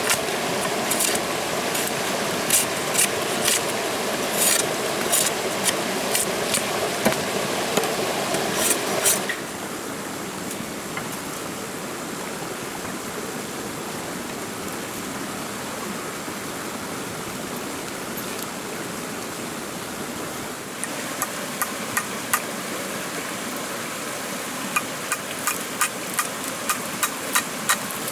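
Sharp taps or knocks, about one or two a second, over a steady rushing background; they stop abruptly about nine seconds in, leaving only the steady rush, and return near the end, coming faster.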